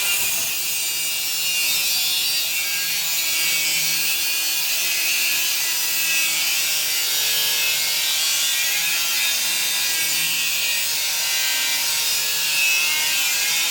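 Angle grinder with a cutting disc slicing through steel: a steady, high-pitched grinding hiss with a whine that wavers slightly as the disc loads up.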